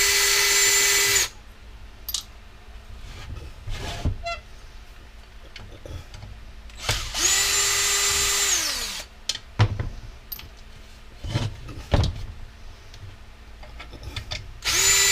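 Power drill driving out screws in three short runs, its motor whine steady while the trigger is held and falling off in pitch as it is let go; clicks and knocks of screws and metal parts being handled between the runs.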